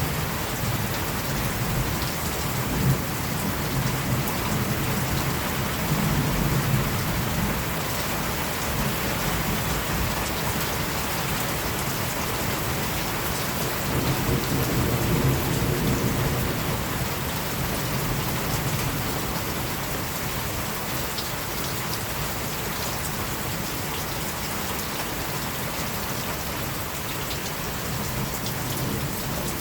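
Steady rain falling, with low rumbles of distant thunder during the first several seconds and again about halfway through.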